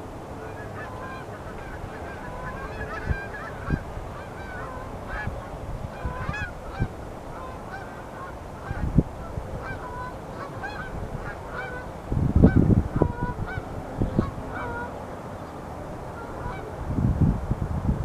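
A flock of birds honking: many short, overlapping calls throughout. Loud low rumbles break in about twelve seconds in and again near the end.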